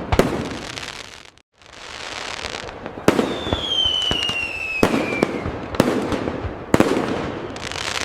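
Fireworks display: several sharp bangs of bursting shells, each trailed by crackling. In the middle a whistle falls steadily in pitch for about two seconds. The sound drops out briefly about a second and a half in.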